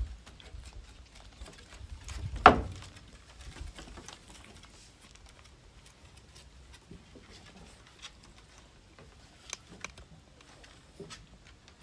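Small dogs' claws clicking and pattering on a hard floor, with one loud sharp knock about two and a half seconds in.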